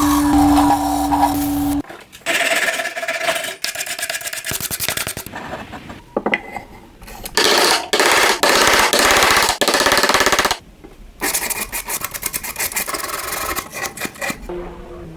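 Scraping and rubbing of hand or abrasive work on a cheese grater under restoration, in a series of short clips with abrupt changes. Near the start a power tool runs with a steady hum. The loudest scraping stretch comes about midway.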